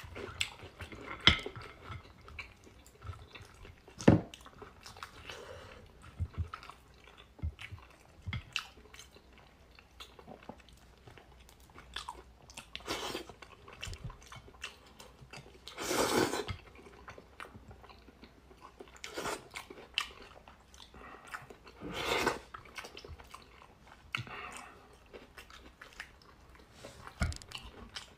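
Close-miked eating: chewing, biting and crunching on a braised fish head picked apart by hand, with many small sharp clicks and a few longer, louder mouth noises around the middle.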